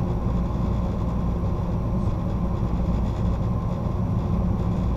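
Amtrak California Zephyr passenger train rolling along the track, a steady low rumble of wheels on rails.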